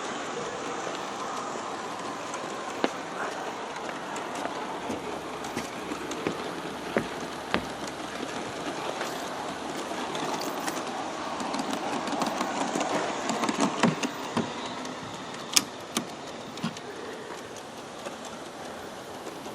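G-scale model passenger train pulled by USA Trains F3 locomotives, rolling along the track: a steady rumble of wheels and motors with irregular sharp clicks, growing louder about twelve to fourteen seconds in as it passes closer.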